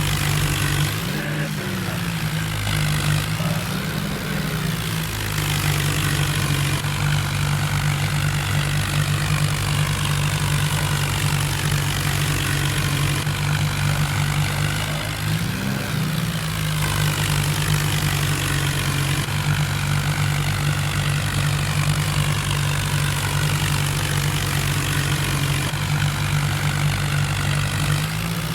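John Deere tractor's diesel engine running steadily, its pitch rising and falling briefly a few times.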